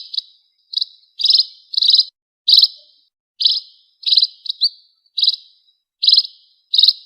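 Pipit (emprit) birds chirping: short, sharp chirps, roughly two a second, repeated steadily.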